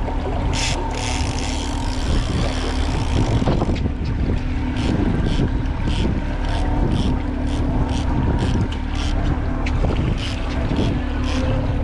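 Boat motor running steadily at trolling speed, a low rumble with a constant hum, with wind buffeting the microphone. From about four seconds in, a fast, even ticking of about two to three clicks a second runs over it.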